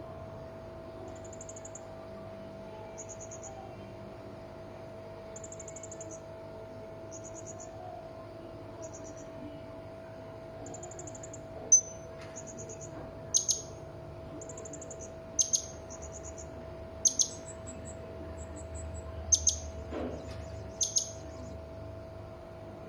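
Serindit (hanging parrot) calling: short, high, buzzy trills repeat about every second and a half, then from about halfway several loud, sharp shrill calls come, some in quick pairs. A faint steady hum runs underneath.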